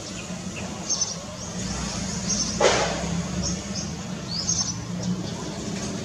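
Small birds chirping: short, high chirps a few times, over a steady low hum. About halfway through, a sudden short burst of noise is the loudest sound.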